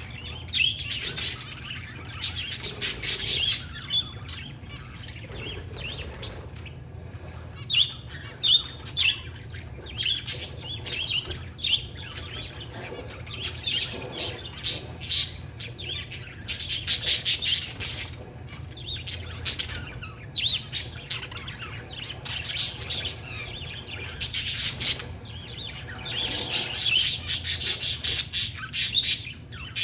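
Parakeets and zebra finches chirping in dense, overlapping flurries of short high calls, busiest at about a second in, around the middle and near the end, with quieter scattered chirps between, over a steady low hum.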